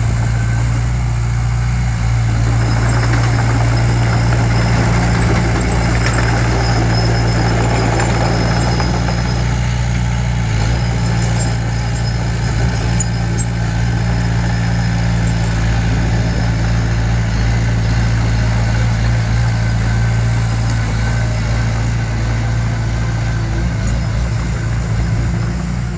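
Diesel engine of heavy construction equipment running at a steady speed, with a constant low hum and some mechanical noise over it.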